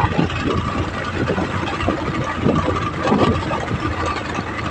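Motorcycle engine running at a steady pitch while riding, with irregular knocks and rattles from a rough, bumpy road.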